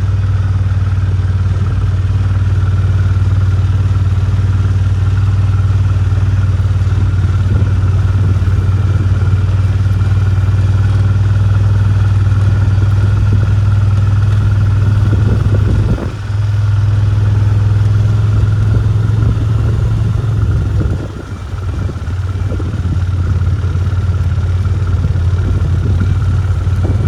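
Farm vehicle's engine running steadily at an even speed, with a brief drop in level about 16 seconds in and another dip around 21 seconds in.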